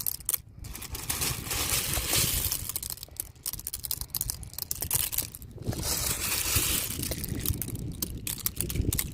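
Wind buffeting the microphone, a rushing rumble with dense crackling and crunching that swells and fades in gusts.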